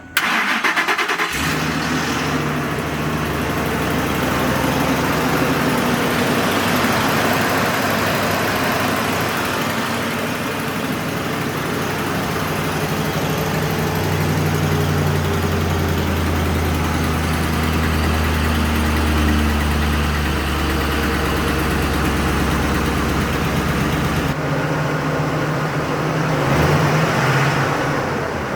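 2005 Ford F250 Super Duty truck's engine starting, then idling steadily.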